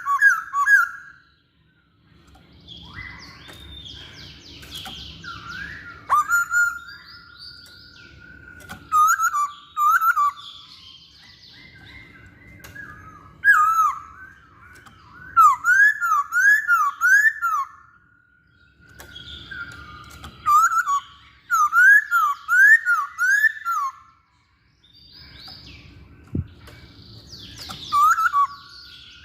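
A Poksay Hongkong (masked laughingthrush) singing in loud bouts of quick, swooping whistled notes with chattering calls above, broken by brief pauses.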